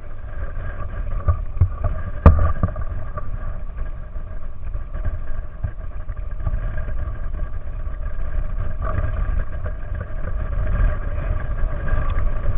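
A motor running steadily over a heavy low rumble, with one sharp knock about two seconds in.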